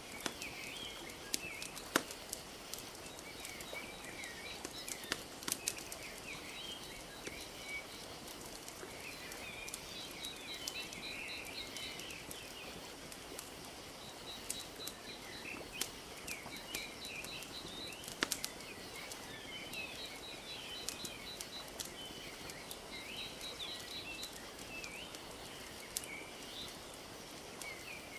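Wood fire crackling with scattered sharp pops, over a steady wash of lake water lapping. Small birds chirp and give short repeated trills throughout.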